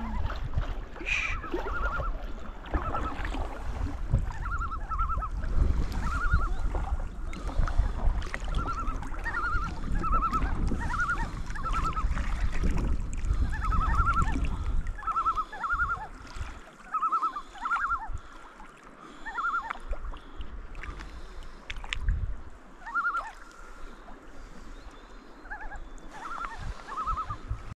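Wind on the microphone and water lapping against a paddled canoe, with a bird calling over and over in short, pitched notes, often in twos and threes. The wind rumble drops away about halfway through.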